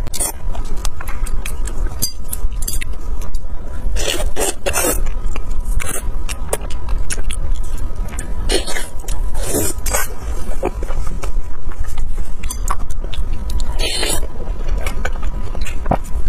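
Close-miked eating sounds: bites and wet chewing of skewered grilled meat, irregular clicks and smacks with a few louder bursts, over a steady low background hum.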